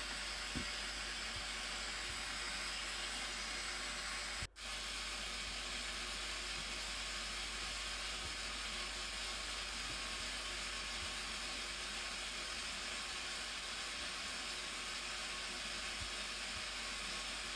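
Steady hissing rush of the Blue Nile Falls' water, even throughout, with a split-second dropout about four and a half seconds in.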